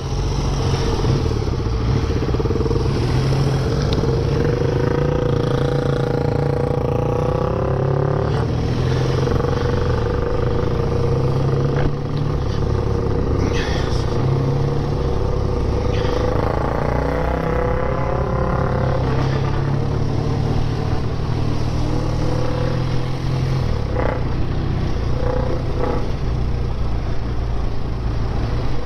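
BSA motorcycle engines running on the road, heard from the rider's own bike. The engine note rises in pitch twice as the bike accelerates, then settles back to a steady cruise.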